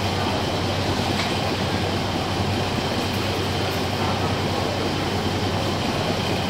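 Passenger train's diesel engine running steadily, a continuous rumble with a constant low hum.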